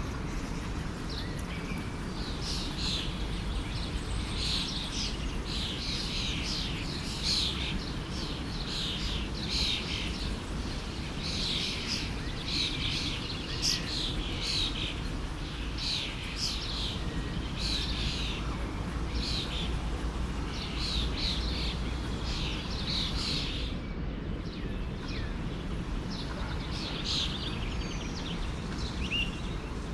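Small songbirds chirping in quick, repeated phrases over the steady rush of a flowing forest stream, with a short pause in the birdsong near the end.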